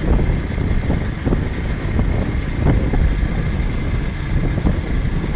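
Wind buffeting the microphone on a moving motorcycle: a loud, uneven rumble, with the motorcycle's running and road noise underneath.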